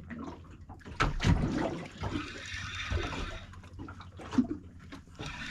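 Water sloshing and rushing, starting with a sharp knock about a second in, over a steady low hum.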